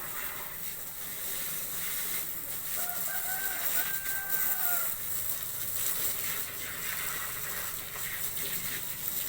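A rooster crowing once, one long slightly arched call starting about three seconds in and lasting nearly two seconds, over a steady background hiss.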